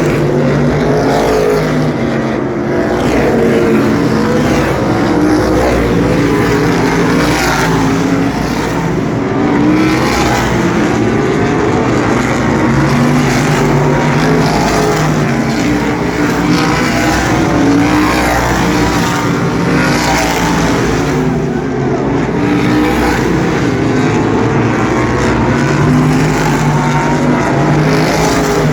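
A pack of asphalt sprint cars racing, several engines at high revs rising and falling in pitch over one another as the cars circle the track.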